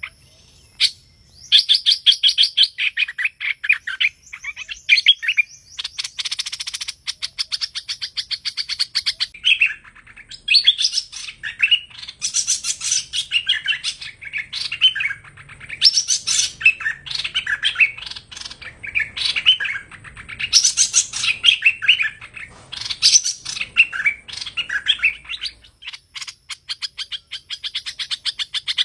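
Song of the bird that Vietnamese bird-keepers call hoành hoạch: a dense run of rapid, high chirps and warbled phrases, with brief pauses about a second in and again near ten seconds in.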